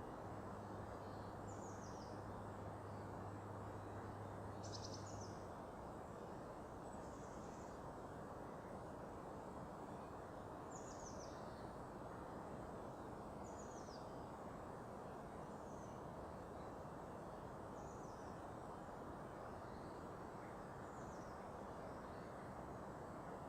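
A small bird giving short, high, downward-sliding call notes every two or three seconds, faint over a steady low background rush. A low hum stops about five seconds in.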